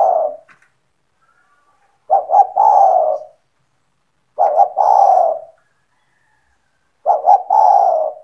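A spotted dove (tekukur) cooing: the tail of one phrase, then three more phrases a little over two seconds apart, each two short quick coos followed by one longer drawn-out coo.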